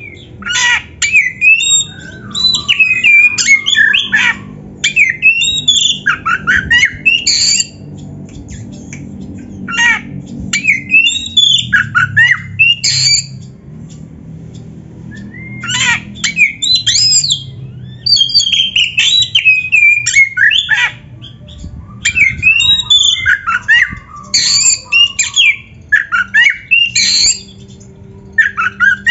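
Oriental magpie-robin (kacer) singing: loud bursts of rapid, varied whistles and chattering notes, each run lasting a few seconds, broken by short pauses.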